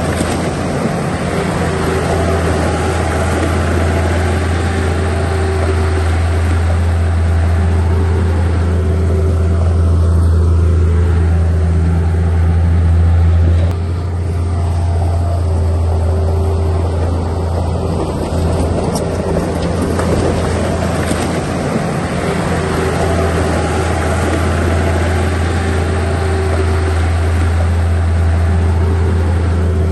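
Diesel engine of a heavy construction machine running steadily with a deep drone, dipping slightly in level about 14 seconds in.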